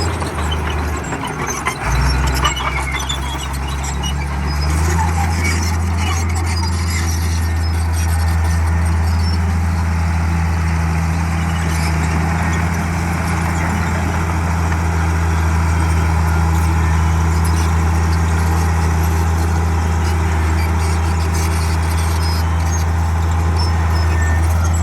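Komatsu D58E bulldozer's diesel engine running under load, its note stepping up about two seconds in and again a few seconds later, with a high squeal and clatter from the machine working.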